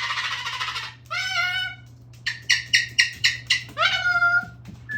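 Cockatoo vocalising: a harsh screech that breaks off about a second in, followed by several shorter pitched calls, including a quick run of even chirps.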